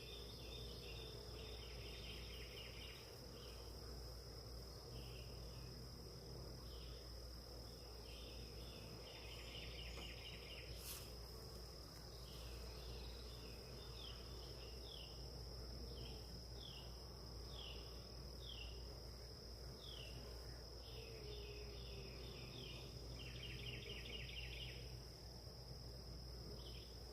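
Insects chirping in short pulsed trills, a group every second or two, over a steady high whine.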